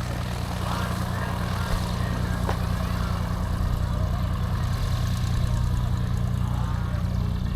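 An engine idling steadily at an even pitch, with faint voices in the background and a single sharp click about two and a half seconds in.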